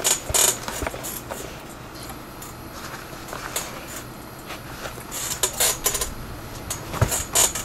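Leather lace being pulled and worked through the lace holes of a catcher's mitt during relacing: scattered short rustling swishes and small clicks of leather handling, busiest about half a second in and again between five and seven and a half seconds in.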